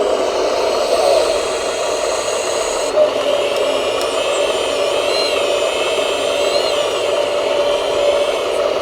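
Electric motors and gearboxes of RC model construction machines whining steadily, with the pitch wavering up and down for a couple of seconds in the middle as a motor changes speed.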